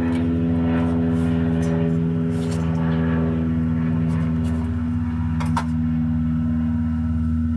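A steady machine hum with a low, even pitch, with a few light metallic clicks and clinks of hand tools and bolts on top, the loudest clink about five and a half seconds in.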